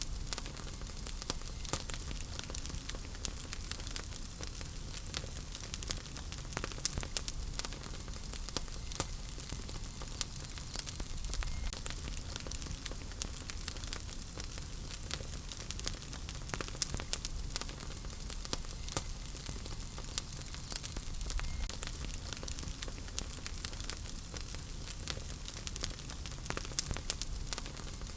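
Wood fire burning in a fireplace: a steady soft hiss with frequent small crackles and pops scattered throughout.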